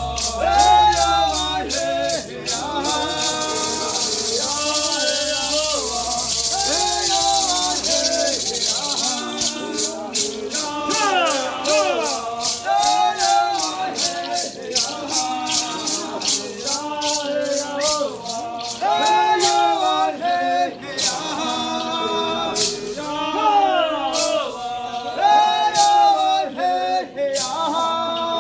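Indigenous rain-dance song: voices singing a repeating chant while maracá rattles are shaken on a steady beat, the rattling dense at first and thinning out after about nine seconds.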